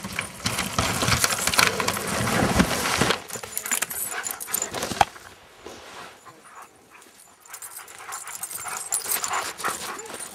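Sled dogs making noise, louder and denser for the first three seconds, then quieter and more scattered.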